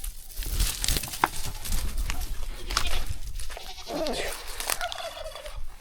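A goat bleating, one wavering call about four seconds in and a shorter one just before the end, over scuffling, rustling and knocking noise from the chase and handling of the camera.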